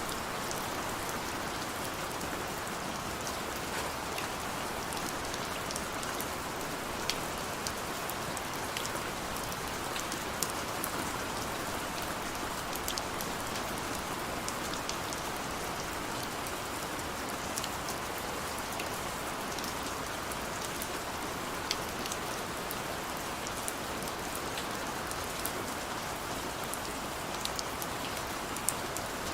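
Heavy rain falling steadily, a dense even hiss with scattered sharper drop taps.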